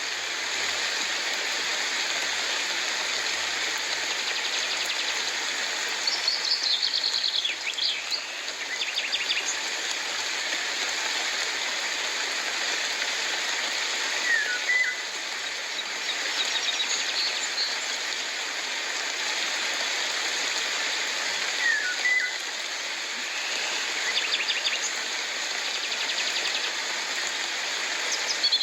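Steady rain hiss with birds calling over it: several runs of rapid, high chirps, and twice a short whistled note that dips and rises.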